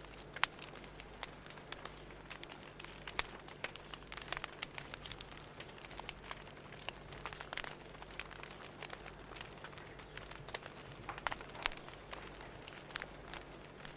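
Wood fire crackling: irregular pops and snaps over a soft hiss, with a steady low hum underneath.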